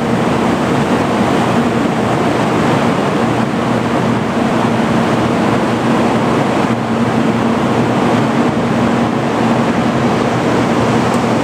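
Steady rushing noise with a constant low hum from stationary electric trains, a 787 series limited express and an 800 series Shinkansen, standing at the platform.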